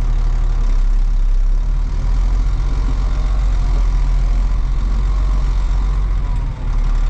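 Diesel engine of an articulated off-road haul truck running steadily at low revs while the truck is manoeuvred into park, with a brief dip shortly before the end.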